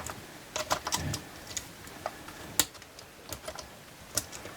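Scattered, irregular metallic clicks and clinks of a chainsaw chain and bar being handled as the new chain is worked onto the drive sprocket and the bar is shifted to seat the chain tensioner pin in its hole.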